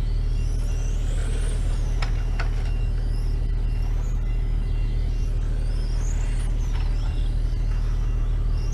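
Racing motorbikes lapping a circuit: a high-pitched whine rises and falls again and again as they speed up and brake through the corners, over a steady low hum. Two sharp clicks come about two seconds in.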